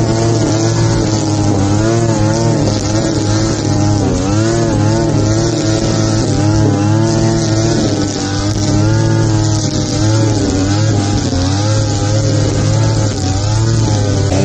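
Petrol grass-cutting machine engine running hard while cutting, its pitch dipping and rising again about once a second, over a steady low hum and a hiss.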